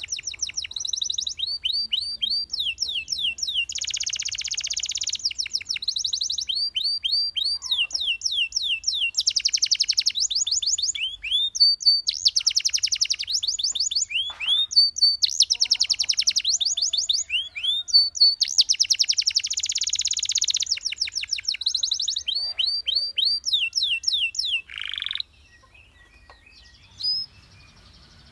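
Canary singing a long song of trills: runs of rapid repeated notes and rising sweeps, strung together in phrases of a few seconds each. The song stops about 25 seconds in, leaving a couple of faint notes.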